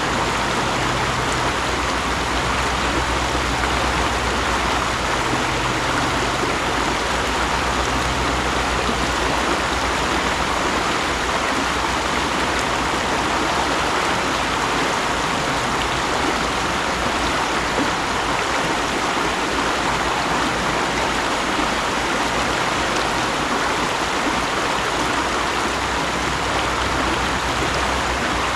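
A mountain stream rushing and splashing over rocks, a steady, even flow of water.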